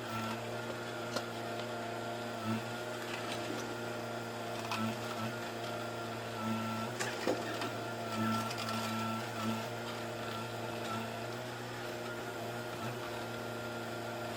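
Diesel engine of a tractor-type earthmoving machine running at a steady speed while it uproots and digs, with a few light knocks and clicks over the hum.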